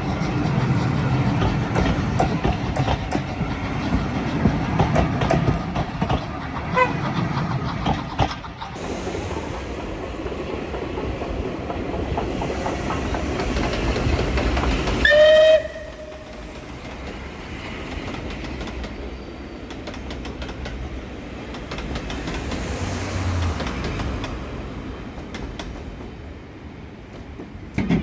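Steam train running on the line with a loud, dense chuffing and rumbling, and a short whistle blast about halfway through. Right after the whistle the sound drops suddenly to a quieter, steady train rumble.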